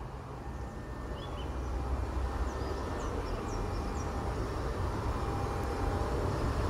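Diesel locomotive hauling a passenger train approaching, its low engine rumble growing steadily louder, with a few short high chirps over it.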